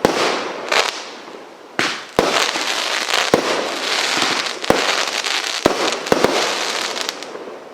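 Plasma firework from the Cube Connection pack firing: sharp bangs every second or so over a steady crackling hiss, dying away near the end.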